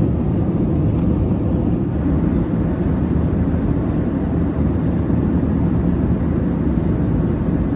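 Steady low rumble of an Airbus A321's passenger cabin in flight: the drone of the jet engines and the rush of air past the fuselage, even throughout.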